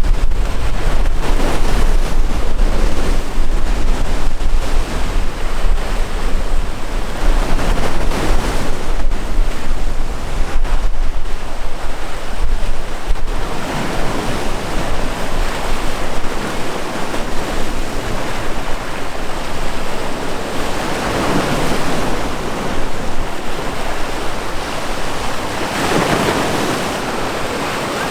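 Sea waves breaking and washing in, swelling and fading every several seconds, with wind rumbling on the microphone during the first half.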